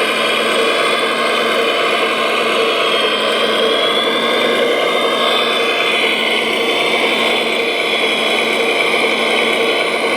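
Radio-controlled model construction machinery running: a steady whine of small electric motors and gearboxes, made of several tones, with a high tone that drifts slightly up and down.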